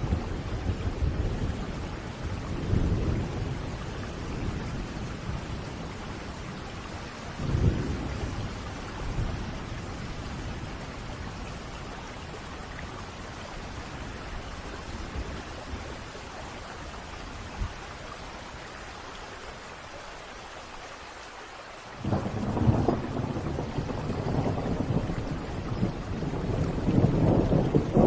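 Steady rain with rolling thunder. The thunder rumbles in the first few seconds and again about a quarter of the way in, then eases to rain alone. A sudden loud peal comes about three-quarters of the way through, and the rumbling builds again near the end.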